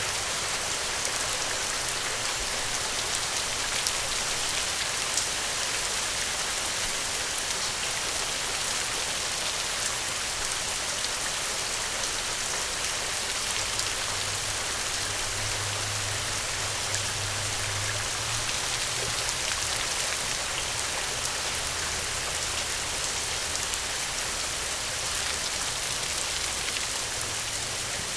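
Steady gentle rain: an even hiss of falling rain with fine pattering drops. A faint low rumble swells in the middle and fades out again.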